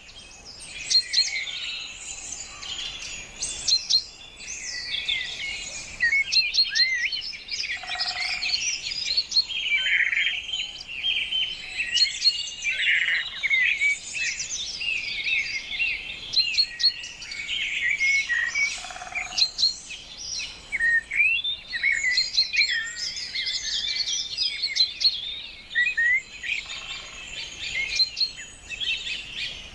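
Many birds chirping at once: a dense run of short, high calls overlapping throughout, with a lower call twice, about eight seconds in and again near nineteen seconds.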